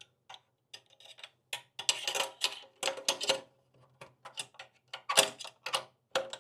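Irregular clicking and rattling of hard parts being handled as a motorcycle's exhaust servo cable is worked loose to get some slack.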